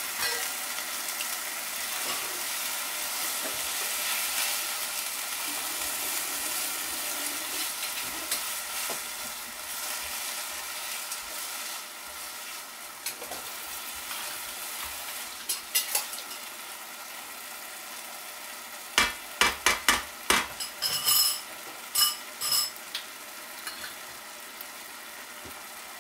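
Chicken and vegetables sizzling in stir-fry sauce in a frying pan just after the sauce goes in, a steady hiss that softens after about ten seconds. Past the middle, a spatula scrapes and knocks against the pan in a quick run of sharp strokes.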